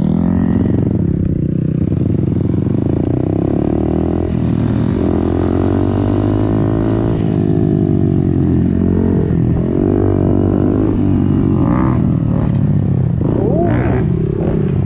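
Dirt bike engine running hard on a trail ride, its pitch climbing and dropping again and again as the throttle is worked and gears change.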